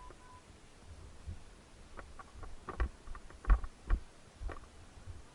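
A brief two-way radio beep right at the start, then a few scattered knocks and clicks at irregular intervals, the loudest two a little past three and a half seconds in.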